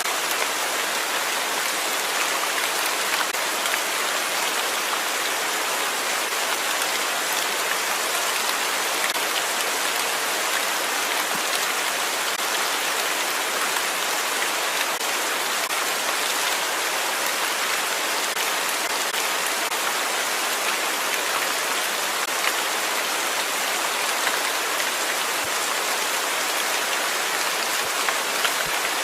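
Steady rain falling, an even hiss of many drops pattering on a surface, with no change in strength.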